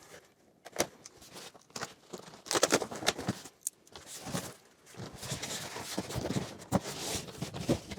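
A cardboard box being opened and its packaging handled: irregular rustling and scraping, with a few sharp clicks and knocks.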